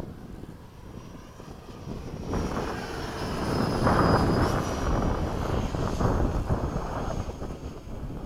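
Electric ducted-fan motor of a radio-controlled F-5 jet on a high-speed pass. A thin high whine that shifts in pitch swells about two seconds in and is loudest around four seconds, over wind rumble on the microphone.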